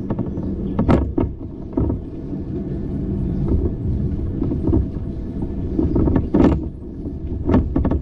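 Bicycle ride noise: a steady low rumble of tyres and air on the microphone, broken by a few sharp knocks and rattles.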